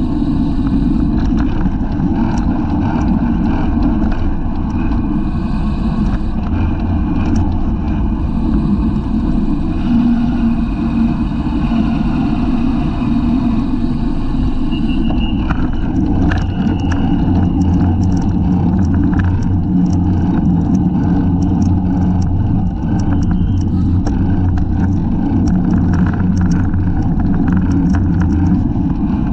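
Wind rushing over the microphone of a bicycle-mounted camera during a road race, with scattered short clicks from the moving bike.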